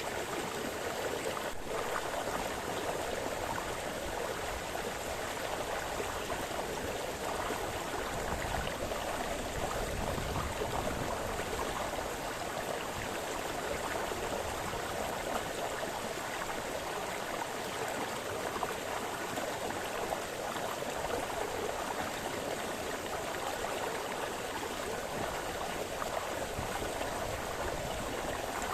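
A small brook splashing and babbling over stones, a steady, even rush of running water.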